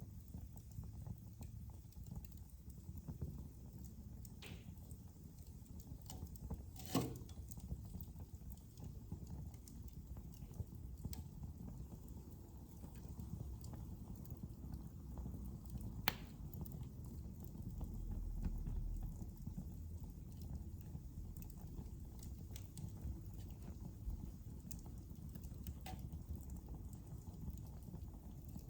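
Wood fire crackling in a fireplace: a steady low rumble with scattered small pops, and two sharper snaps about seven and sixteen seconds in.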